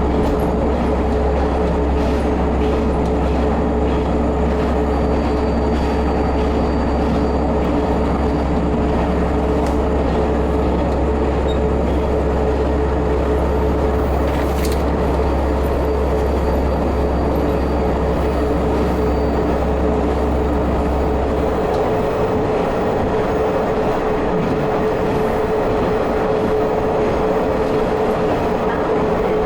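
Diesel railcar heard from inside while running: steady engine and running noise with a constant whine. The deep low engine drone drops out about three-quarters of the way through.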